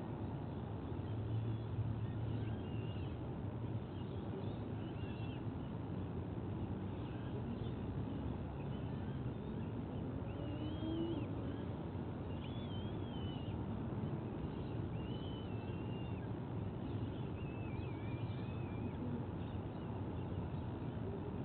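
A steady low rumble on an outdoor nest-camera microphone, with faint, short, wavering bird calls coming again and again through it, most of them in the middle to later part.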